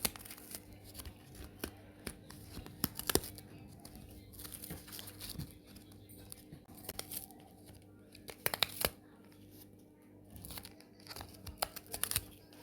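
Irregular crinkling and crunching: clusters of sharp crackles with short pauses between them, the loudest about three seconds in and again around eight and a half seconds in, over a faint steady hum.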